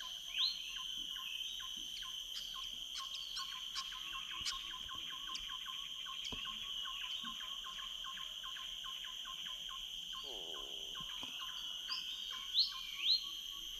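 Dawn chorus of tropical rainforest birds, many short calls and quick rising whistles, over a steady high drone of insects. The loudest whistles come just after the start and twice near the end, and a lower falling call sounds about ten seconds in.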